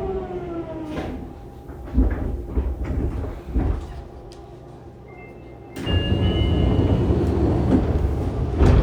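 The Hitachi GTO-VVVF inverter on a Fukuoka City Subway 2000 series train whines in a falling pitch as it brakes, fading out about a second in as the train comes to a stop. After a few thuds and a quieter spell, the doors slide open about six seconds in with a short chime, and the sound of the platform floods in.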